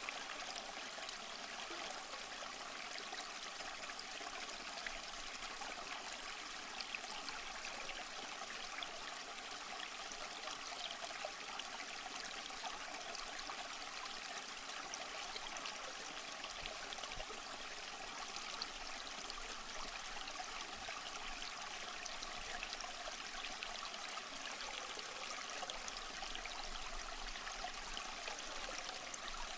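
Small shallow stream flowing and trickling over rocks, a steady bright babble of water.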